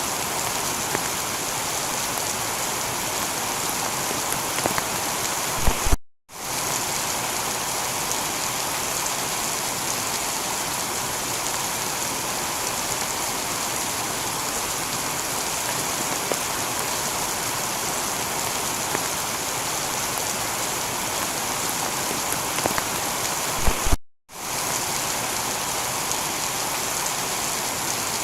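Steady heavy rain falling on a tiled roof, an even hiss with scattered drop hits. The sound cuts out completely for a split second twice, about six seconds in and about four seconds before the end, each cut just after a few sharper spikes.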